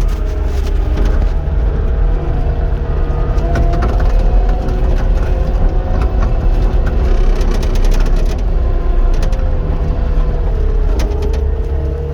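Caterpillar 259 skid steer's diesel engine running under load, with a whine that rises and falls as the hydraulics work and scattered clanks and rattles from the machine.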